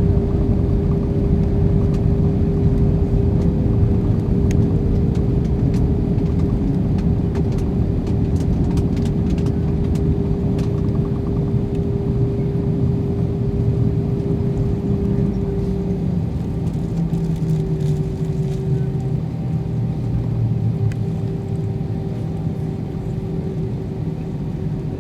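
Airbus A320 cabin noise from its IAE engines running at low power while taxiing after landing: a steady drone with a steady hum, easing slightly toward the end. A few light rattles or clicks come in the middle.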